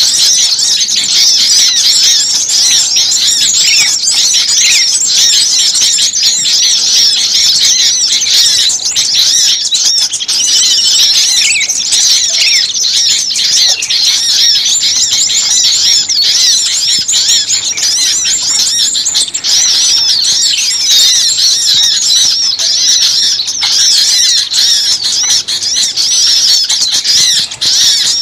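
A dense chorus of many small songbirds chirping and twittering at once, loud and high-pitched with no break: a bird-lure recording of noisy mixed small birds.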